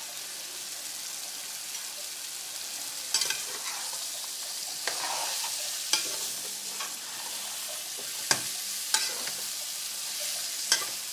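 Chopped potatoes, peas and carrots sizzling as they go into hot fried masala in a steel pot, with a steady hiss and about six sharp clinks of a spoon against the pot as they are stirred.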